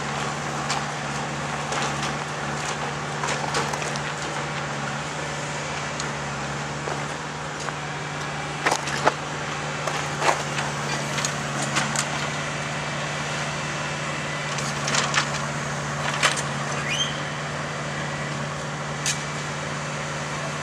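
GE Dash 9-40CW diesel locomotives idling with a steady low hum. Scattered sharp knocks and clanks from tie-replacement work on the track come through it, a few close together about a third and again about three-quarters of the way in.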